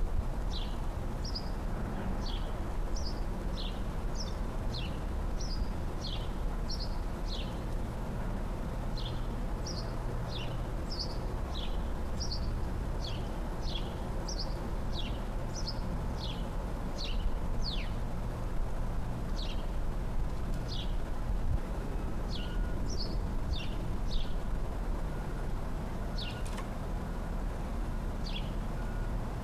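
A small songbird chirping over and over: short, high, falling chirps at about one to two a second, over a steady low background rumble.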